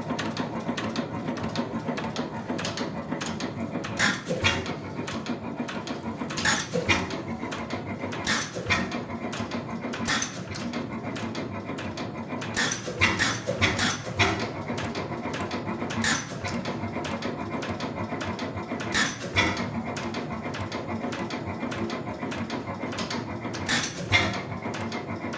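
Tangye 5 hp portable oil engine running: a steady mechanical clatter with irregular louder bangs every second or few seconds.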